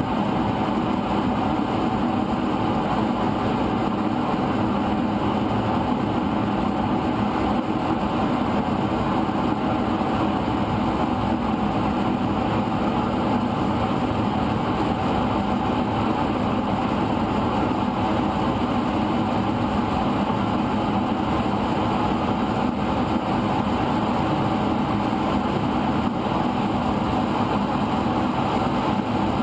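Steady mechanical hum of a running engine or motor, unchanging in pitch and level throughout.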